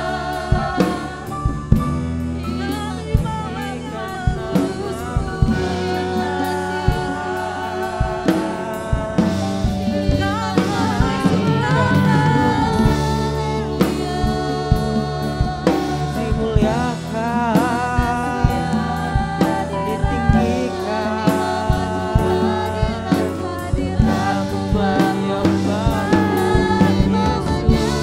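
Live worship band playing a praise song with singing, sustained keyboard chords and a drum kit keeping a steady beat.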